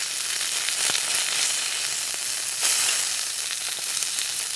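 Thick-cut beef steak sizzling on a hot iron griddle: a steady high hiss with scattered little spits and crackles.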